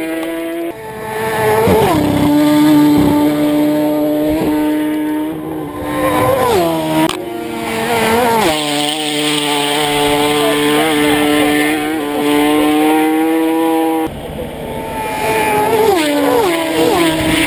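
Racing motorcycle engines at full throttle, the high steady note dropping sharply in pitch as each bike sweeps past, several times.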